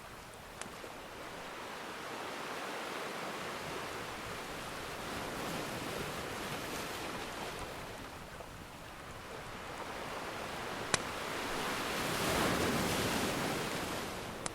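Ocean surf washing in and drawing back in slow swells, with a wave surging up near the end, and a few sharp pops from a crackling wood fire, the loudest about eleven seconds in.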